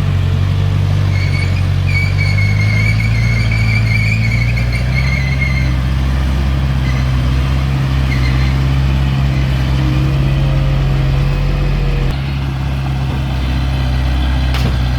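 Heavy earthmoving machine's diesel engine running steadily under load, with a wavering high-pitched squeal over the first few seconds.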